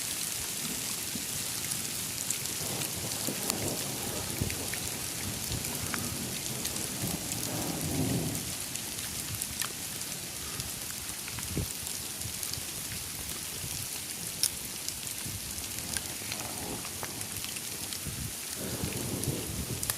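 Rain mixed with hail pattering steadily, dotted with sharp ticks of hailstones striking. Low rumbles of thunder come several times, the strongest about eight seconds in.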